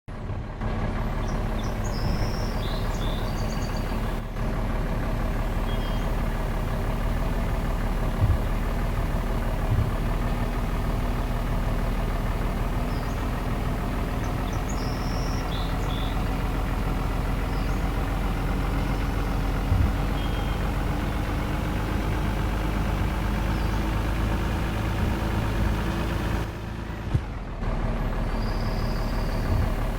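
Truck engine running steadily, its pitch rising slowly and gradually as the revs build. The sound breaks off briefly twice: once around four seconds in, and for about a second near the end.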